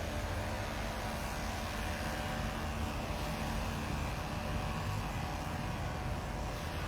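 Steady low rumble of engine noise in the background, with faint humming tones and no distinct events.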